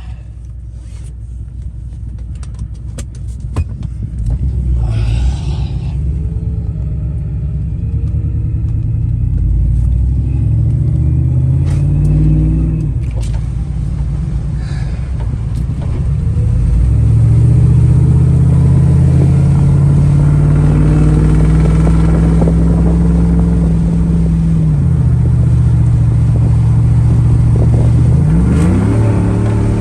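Chevy Silverado's 5.3-litre V8, fitted with long-tube headers and a full 3-inch Magnaflow Magnapack exhaust, pulling hard under acceleration. The note builds, climbs in pitch and drops back twice, about twelve and twenty-four seconds in, then climbs sharply again near the end.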